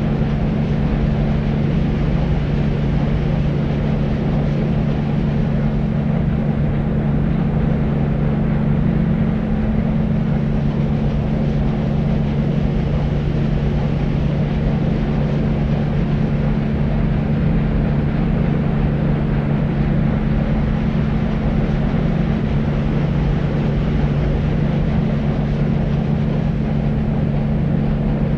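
Deep white noise: a steady, unbroken rumbling hiss weighted toward the low end, with a strong low drone and little treble.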